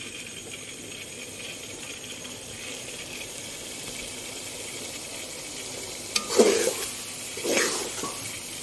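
Chicken and spice masala sizzling as it fries in a pot. From about six seconds in, a few stirring strokes of a metal spoon scrape through it.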